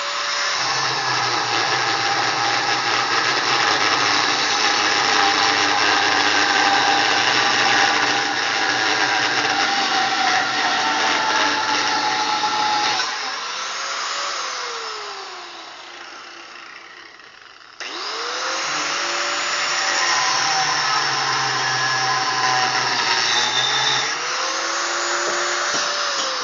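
Angle grinder with a thin zip-cut disc cutting steel pipe, the motor running with a high whine under a steady grinding hiss. About 13 seconds in it stops and winds down, and about 18 seconds in it starts up again and keeps cutting.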